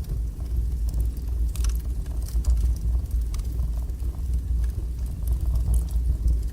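Wood fire burning in a fireplace: a steady low roar with scattered crackles and pops.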